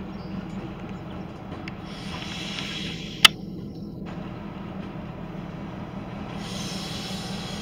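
A train running with a steady low hum, with two spells of hissing and one sharp click about three seconds in.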